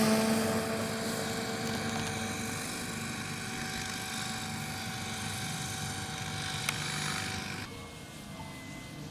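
Radio-controlled model aircraft engine running with a steady tone, fading over the first second. It drops off suddenly about three-quarters of the way through, leaving a fainter hum.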